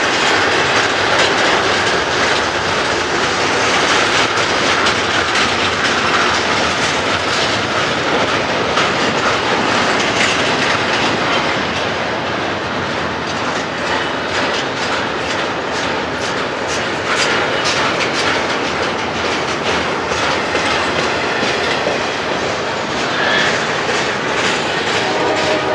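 Double-stack intermodal well cars of a freight train rolling past: a steady rumble of steel wheels on rail, broken by the clickety-clack of wheels going over rail joints.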